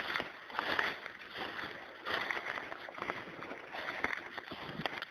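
Wet rustling and sloshing in rain-soaked woods, swelling and fading every second or two.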